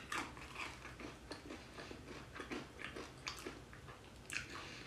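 A person chewing fried chicken up close, with many small irregular crunches and wet mouth sounds.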